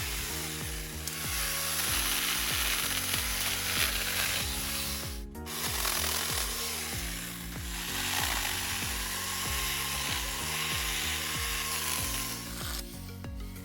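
Small battery-powered mini chainsaw cutting through branches and brush, its motor whine and the chain's rasp coming and going in stretches, with a brief break about five seconds in and the cutting dying away near the end. Background music with sustained chords plays underneath.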